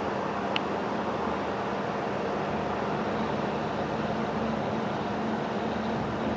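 Steady vehicle engine noise, even and unchanging, with a faint hum and a single short click about half a second in.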